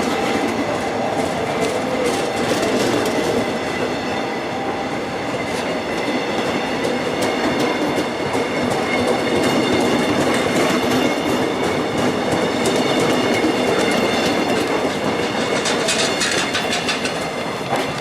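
A train running through a station, its wheels clattering over the rail joints in a steady run of clicks under a continuous rumble of wheels on rails.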